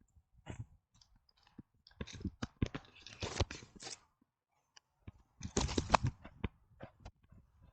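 Rustling, crunching and knocking picked up by a camera strapped to a running dog, with scattered clicks and two louder crackly spells, one about two to four seconds in and one around six seconds in.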